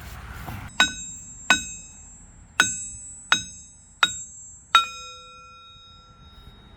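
Six hammer blows tapping a steel excavator sprocket loose from its drive hub, each strike leaving the sprocket ringing like a bell; the last blow rings on for about two seconds.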